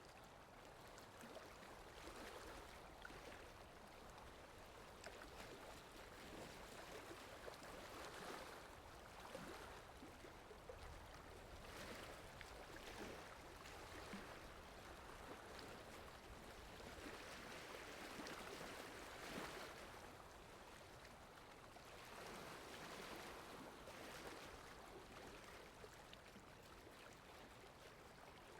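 Faint steady rain ambience, a soft hiss that swells and eases every few seconds.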